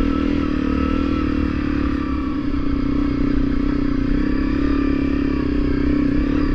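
Honda CRF250L's single-cylinder four-stroke engine running at a steady pitch while the bike is ridden along a dirt trail.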